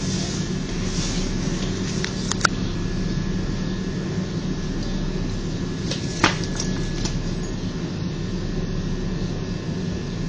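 Tram's steady rumble and hum, with two sharp clicks: a small one about two and a half seconds in and a louder one about six seconds in.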